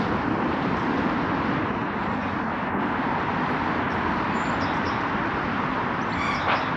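Steady outdoor background noise, an even rumble and hiss, with a few faint high chirps a little past the middle and near the end.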